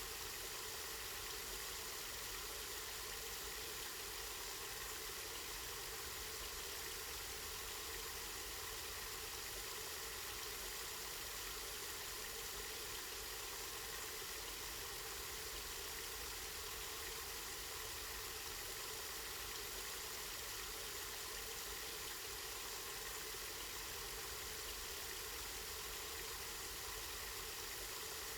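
Water from a spring running steadily, an even, unbroken hiss with a low rumble underneath.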